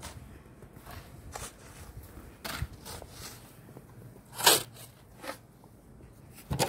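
Deep, heavy snow crunching in a series of short, irregular crunches, the loudest about four and a half seconds in.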